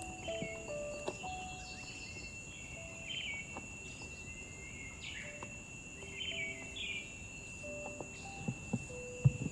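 Insects droning in two steady high tones, with birds chirping every second or so. A few sharp knocks come near the end, the loudest just before it finishes.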